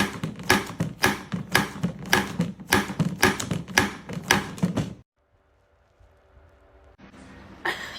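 A fast, even run of sharp taps, a few a second, lasting about five seconds and then stopping abruptly.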